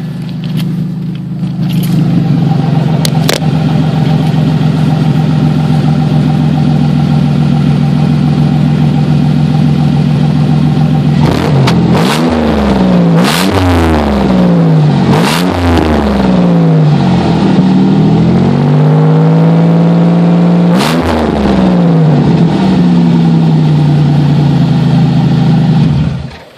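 Buick Park Avenue's V6 running loud and raw through a blown-out exhaust. It idles steadily, is revved up and down several times in quick succession about halfway through, settles back to idle, and cuts off just before the end.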